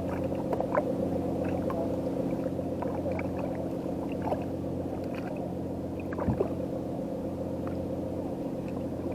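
Steady low engine hum, typical of a boat idling in a harbour, with brief faint gurgles and blips on top.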